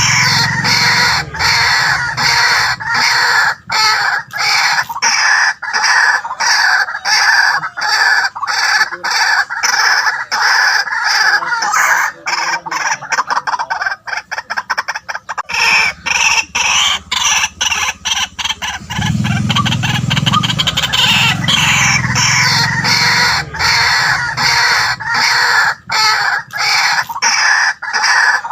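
White-breasted waterhen calling: loud calls repeated in a steady rhythm, with a faster, denser run of notes about halfway through.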